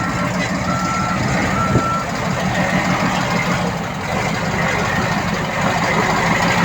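Reversing alarm of heavy earthmoving machinery beeping three times in the first two seconds, over the steady running of a heavy engine.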